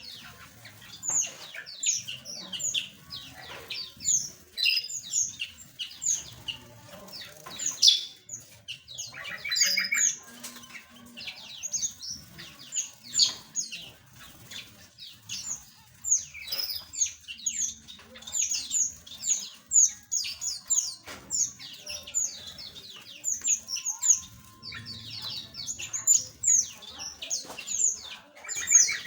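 Many small aviary birds chirping and calling over one another: short high chirps coming thick and fast, with brief lulls.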